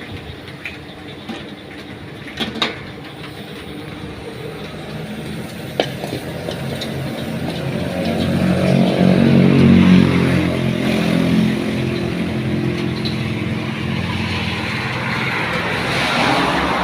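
A motor vehicle passes by during rain: its engine note swells to a peak about ten seconds in and then fades, over a steady hiss of rain. A few light clicks come early on, and a second rise of hiss comes near the end.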